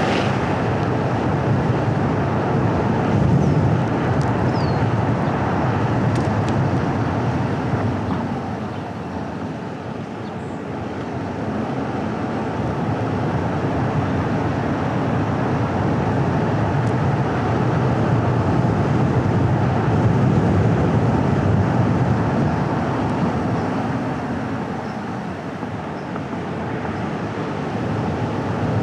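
Car driving along a road: a steady rumble of engine and tyre noise with wind, easing off twice and building up again as the speed changes.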